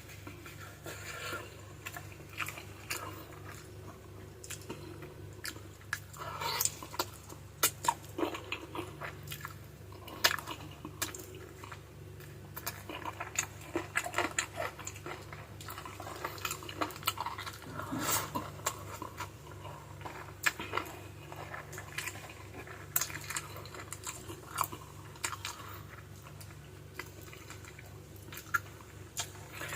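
A person chewing and biting on adobo-braised chicken feet: irregular wet smacks and sharp clicks as the skin and cartilage are worked off the bones, over a steady low hum.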